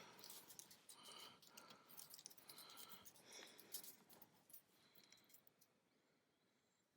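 Faint clicks and light rattling of small parts being handled, fading to near silence toward the end.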